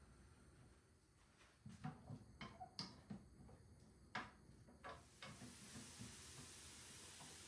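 Quiet kitchen handling: a string of light clicks and knocks of small objects being set down and moved, starting about a second and a half in and stopping about five seconds in, then a faint steady hiss.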